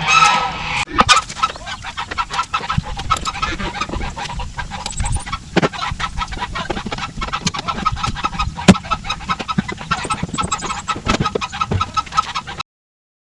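Farm poultry clucking and honking in a dense run of short calls and clicks. The sound cuts off abruptly near the end.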